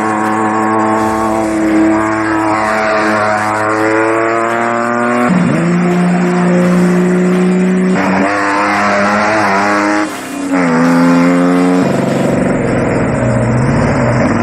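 Off-road race vehicle engines running hard, their pitch climbing and dropping as they rev and shift. The sound changes abruptly several times.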